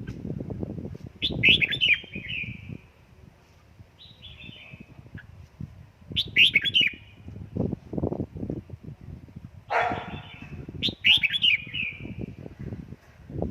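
Red-whiskered bulbul singing its short, loud song phrase three times, about five seconds apart, with softer calls in between. An uneven low rumble runs underneath.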